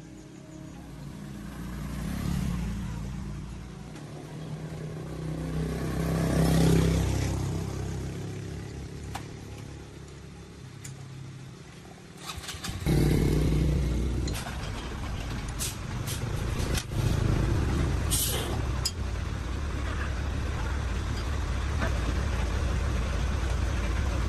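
A motor engine sound swells and fades twice. About halfway through, a steadier engine sound starts abruptly and keeps running, with a few light clicks.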